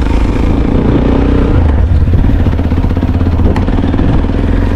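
Motorcycle engine running steadily while riding, with a rapid even firing pulse.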